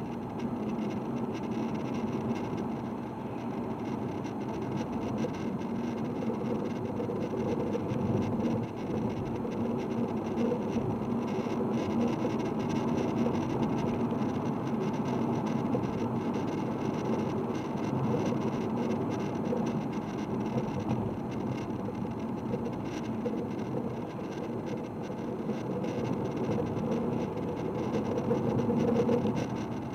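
Diesel car engine running steadily, getting a little louder near the end.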